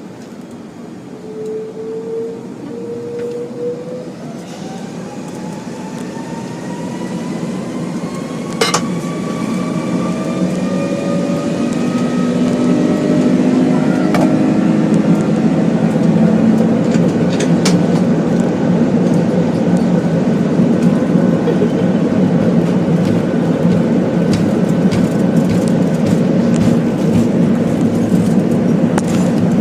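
Airbus A330-300's jet engines spooling up for take-off as heard from inside the cabin: a whine rising in pitch over the first dozen seconds as the noise builds, then a steady loud rumble and rattle of the take-off roll, with a few sharp clicks.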